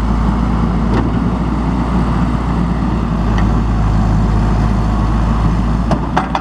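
John Deere 410J backhoe's 4-cylinder turbo diesel engine running steadily, with a few sharp clicks near the end.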